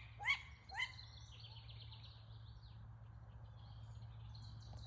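Birds calling: three short rising calls in the first second, then high, fast twittering that runs on, over a low steady hum.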